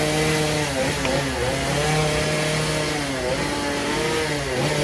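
Chainsaw running at high speed while carving a wood block, its engine pitch dipping and recovering several times as the chain bites into the wood.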